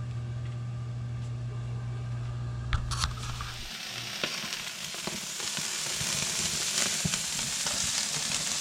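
Hamburger patties sizzling as they fry in a pan, an even crackling hiss that starts about three seconds in after a couple of clicks. Before that, a steady low hum.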